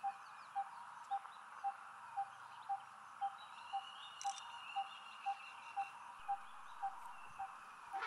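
A bird calling a short, low note over and over, evenly about twice a second, over a steady background hiss.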